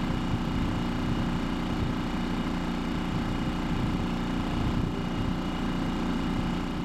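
Small sailboat's motor running steadily while under way: a continuous engine hum with several steady tones that holds unchanged throughout.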